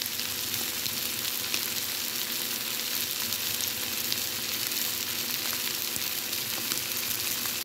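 Salmon, tomatoes and yellow squash sizzling steadily in an oiled skillet, with small crackles through the hiss, as the dish nears done.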